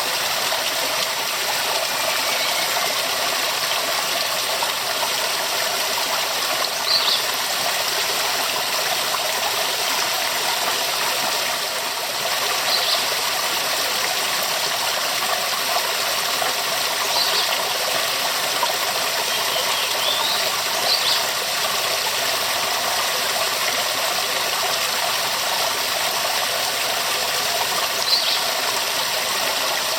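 Waterfall: a steady rush of falling water, dense and unbroken, with a few brief high ticks over it.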